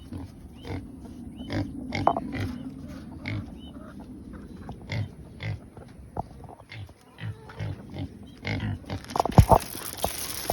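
Pigs grunting repeatedly at feeding time, about two short grunts a second. About nine seconds in there are a few loud sharp sounds, then a steady rushing hiss begins.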